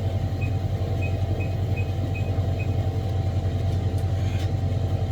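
A steady low rumbling hum, with six faint short high pips in the first half.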